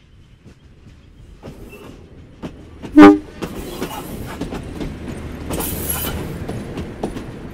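Vintage railmotor train approaching and passing close by, giving one short horn toot about three seconds in. Then the rumble of the passing carriages, with the clicking of wheels over rail joints.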